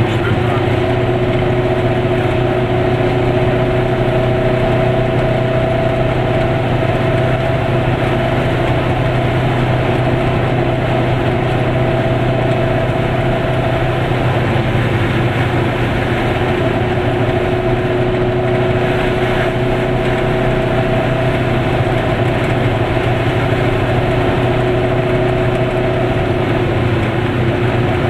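Goggomobil's small air-cooled two-stroke twin-cylinder engine running at a steady pace while the car cruises, heard from inside the cabin over road noise.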